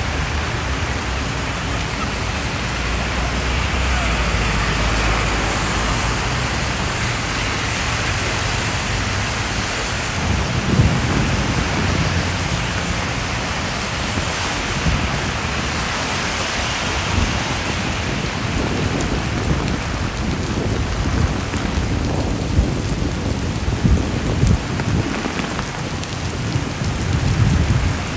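Heavy rain falling and splashing on wet pavement: a steady hiss throughout. From about ten seconds in it is joined by irregular low rumbles and thumps.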